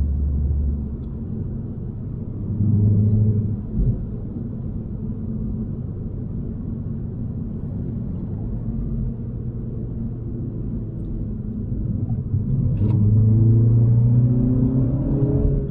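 2021 MINI Cooper S's B48 2.0-litre turbocharged four-cylinder engine heard from inside the cabin on the move, over steady road noise. The engine note swells a few seconds in and drops away sharply, then rises in pitch near the end as the car accelerates.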